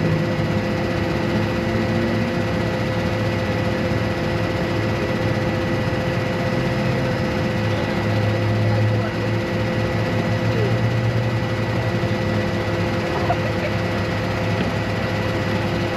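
A vehicle engine running steadily, a constant hum with no sudden changes.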